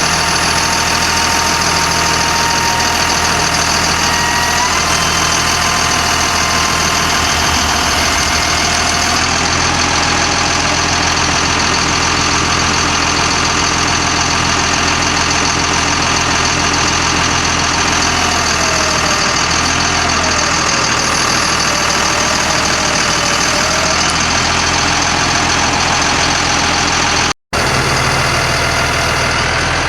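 Caterpillar diesel engine of a 1991 GMC Topkick bucket truck running steadily, with a thin whine above it that steps up and later wavers in pitch.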